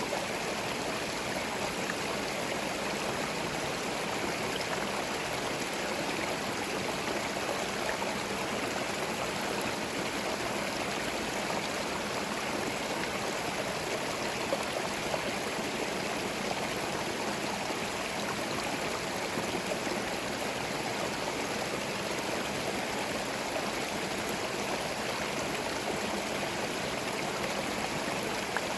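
Small forest stream flowing over stones, a steady rushing and babbling of water with no birds.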